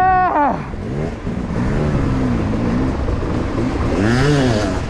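Hard-enduro dirt bike engine revving up and down as it climbs rocks, with pitch swells near the start and again about four seconds in.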